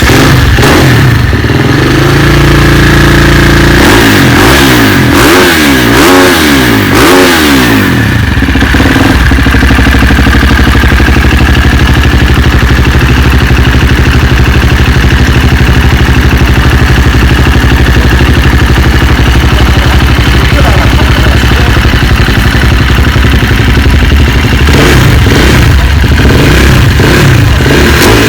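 KTM 300 single-cylinder two-stroke engine running through an aftermarket racing exhaust, very loud. The throttle is blipped repeatedly about four to eight seconds in, the engine then runs at steady revs, and it is blipped again near the end.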